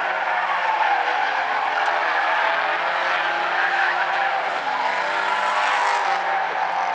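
Several Stinger 8 race cars' engines running hard together, their pitches rising and falling as the cars race around the track.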